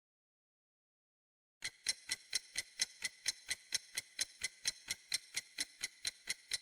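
Silence, then about one and a half seconds in a clock starts ticking quickly and evenly, about four ticks a second: a countdown-timer sound effect counting down the time to answer.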